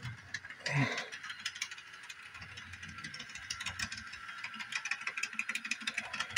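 Bachmann Spectrum doodlebug model railcar running on the track, its motor and gears giving a fast, irregular clicking and rattling.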